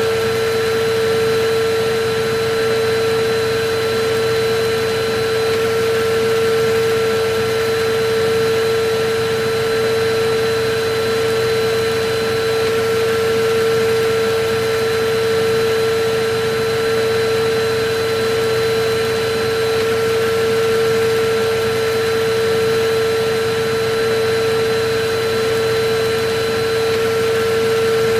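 Vacuum cleaner running continuously: a steady motor whine with one strong fixed tone and fainter higher tones over a constant rush of air, the level swelling only slightly and slowly.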